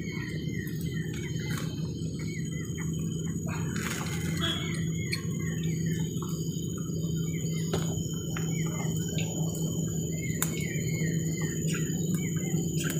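Birds calling over and over in short falling chirps, over a steady low background rumble, with a few sharp clicks and knocks.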